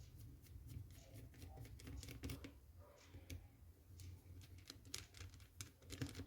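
Faint, irregular light clicks and taps of small parts and tools being handled during work on an airsoft rifle.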